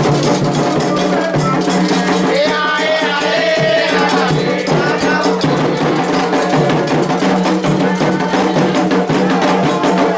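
Percussion music with shaken rattles and drums struck continuously, and a voice singing briefly about two to four seconds in.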